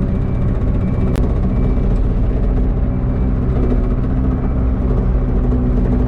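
Excavator's diesel engine running steadily at an even speed, with one sharp click about a second in.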